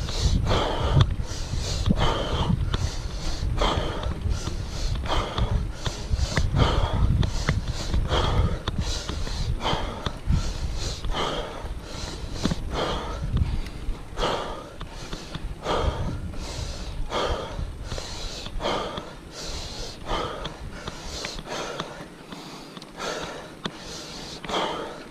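A cyclist breathing hard and rhythmically, about four breaths every three seconds, from the effort of a steep uphill climb on a mountain bike. Under the breathing runs a low rumble that drops away near the end.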